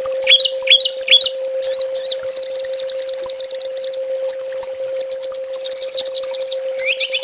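A small songbird singing fast 'tembakan' trills: three sharp rising whistles, then long runs of rapid high-pitched trilling with brief breaks, over a steady low hum.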